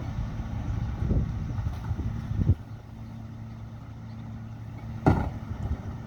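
Mack Granite rear-loader garbage truck's diesel engine running steadily at low revs, with a few sharp bangs and thumps. The loudest come about two and a half and five seconds in, and the engine sound falls quieter after the first of them.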